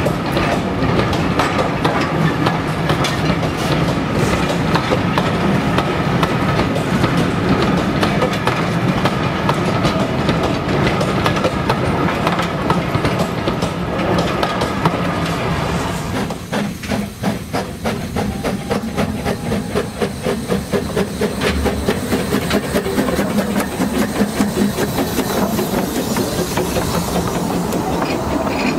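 A passing train: a loud, steady rumble with a low drone, then, a little past halfway, a fast, even clatter of wheels over the rail joints.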